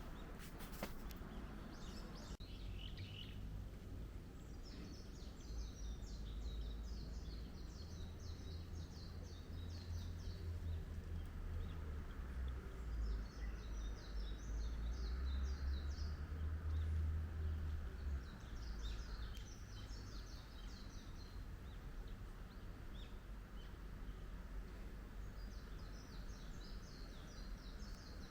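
A small songbird singing in rapid, high chirping phrases, repeated every few seconds, over a steady low outdoor rumble that swells in the middle.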